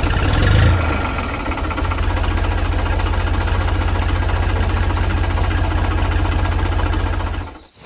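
Tractor engine running steadily with a rapid low knocking beat, a little louder in the first second, then dying away shortly before the end; a steady high hiss runs beneath it.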